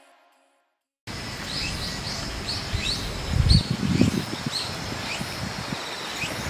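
After the tail of the background music fades out and a second of silence, outdoor ambience comes in: a small bird chirping over and over, about two short high chirps a second, over a faint steady high drone, with a low rumble about three to four seconds in.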